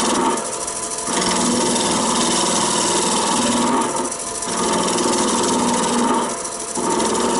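Wood lathe running while a roughing gouge cuts a spinning elm blank: steady cutting noise over the motor's hum, easing off briefly about every two to three seconds between passes of the tool.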